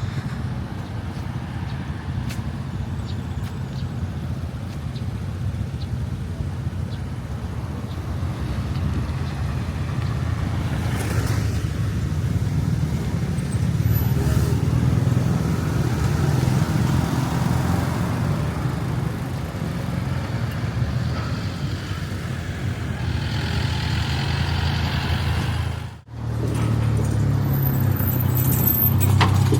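Street traffic: the steady rumble of cars and motorbikes passing on a city road. The sound drops out for a moment near the end.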